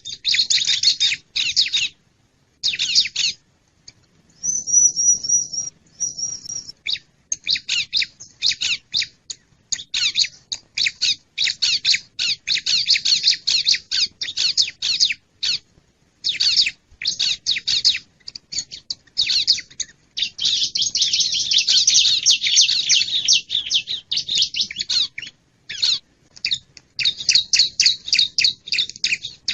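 Bar-winged prinia (ciblek) calling: rapid runs of high, sharp chirps broken by short pauses. A few thin, steady whistled notes come about five seconds in, and a long unbroken run of chirping about twenty seconds in.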